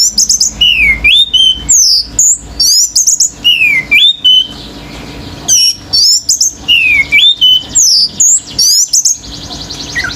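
Orange-headed thrush singing loudly: short phrases of swooping whistled notes, several dipping down and rising again, repeated with brief pauses between them. A faint rapid trill comes in near the end.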